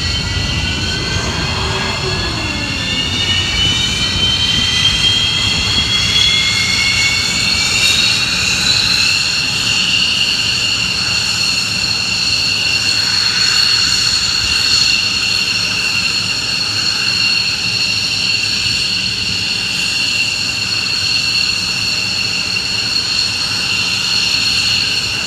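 F-15 fighter's Pratt & Whitney F100 turbofan spooling up during engine start: a high, loud jet whine rises in pitch for about nine seconds, then settles into a steady idle whine over a low rumble.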